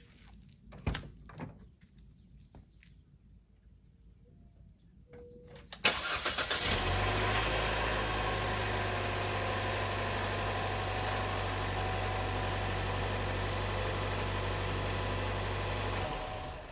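Chevy Trax's 1.4-litre four-cylinder engine cranked by the starter and catching about six seconds in, on its freshly installed battery, then idling steadily for about ten seconds before it stops near the end. A few faint knocks come before the start.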